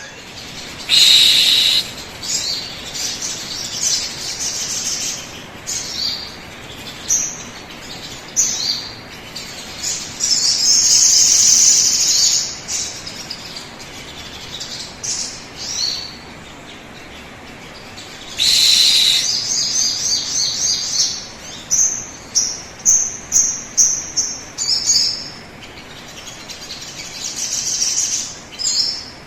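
Sogon bird song: repeated high chirps and whistled phrases, with loud outbursts about a second in and again past the middle, and a run of quick separate notes near the end. It is the kind of song played as a lure to prompt a caged sogon to start singing.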